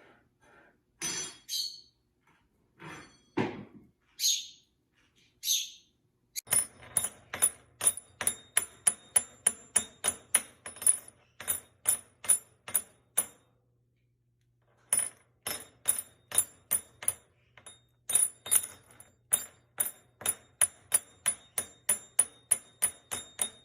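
A parrot gives a few short, high calls, then a long run of sharp taps or knocks, about three a second, with a short pause about halfway through.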